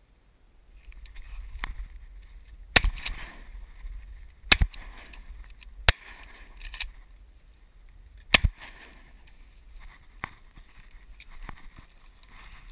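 A series of sharp, loud bangs, about six in all, irregularly spaced over a steady rushing background, the loudest three about 3, 4.5 and 8 seconds in.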